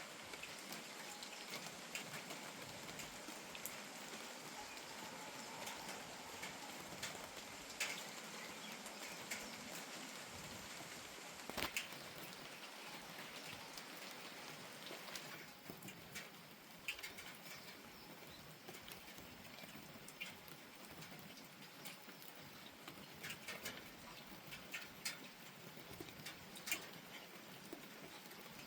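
Steady, soft rain falling, with scattered individual drops tapping irregularly, a few of them louder. The rain's hiss eases slightly about halfway through.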